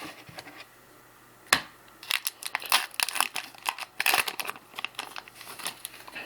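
The wrapper of a 1993-94 Fleer Ultra basketball card pack being torn open and crinkled by hand. A single sharp snap comes about a second and a half in, then a run of crackling and tearing.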